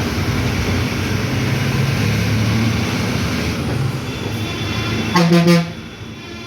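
Truck engine running steadily under way, with a single short horn blast about five seconds in.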